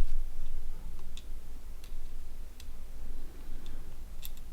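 Small sharp clicks and taps of tiny plastic and metal phone parts being handled as the flash module of a Nokia 6680 is fitted during reassembly. There are about half a dozen scattered clicks, with a quick pair near the end, over a low steady hum.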